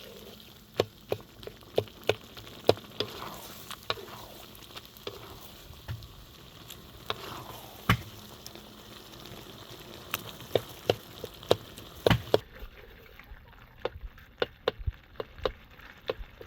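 A cooking utensil stirring food in a pot, knocking and scraping against it in sharp, irregular clacks, over a faint sizzle of frying. About twelve seconds in, the background hiss drops abruptly while the clacking goes on.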